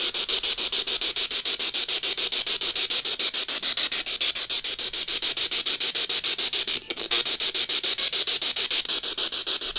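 Spirit box (radio-sweep "black box") hissing static, chopped into a fast, even stutter as it scans through stations, with a brief dropout about seven seconds in.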